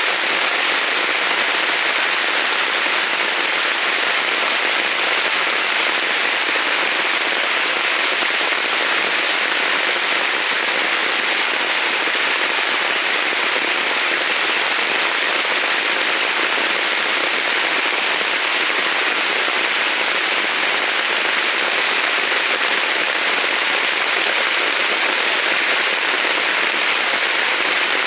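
Heavy rain falling steadily on forest vegetation, a dense even patter.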